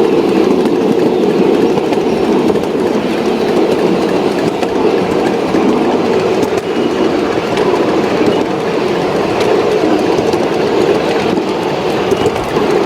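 Model train running along the layout's track, a steady, even running noise with wheel clatter.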